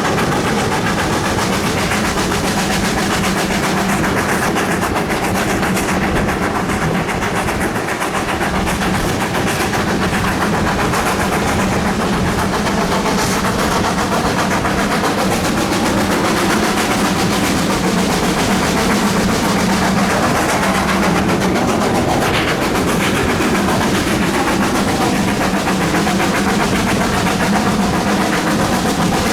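GWR Manor-class steam locomotive, a two-cylinder 4-6-0, working hard with a rapid, loud run of exhaust beats from the chimney over the clatter of the train.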